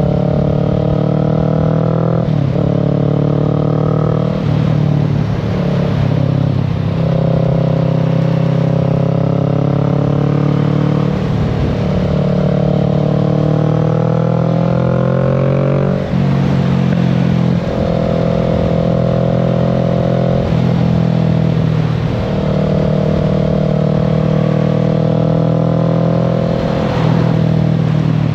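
Kawasaki Z650's parallel-twin engine pulling through the gears on the move, its pitch repeatedly rising under throttle and dropping back at each shift or roll-off, with wind and road noise underneath.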